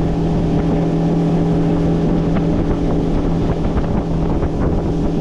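Boat motor running steadily under way, a constant engine hum over rushing water and wind buffeting the microphone.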